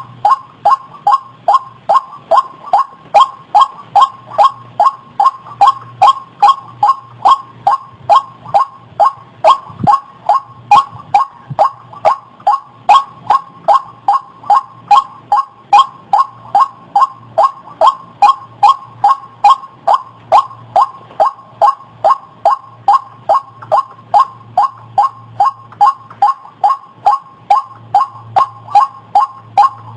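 White-breasted waterhen (ruak-ruak) calling, a steady unbroken run of short pitched notes repeated about two and a half times a second. A faint low hum comes and goes beneath it.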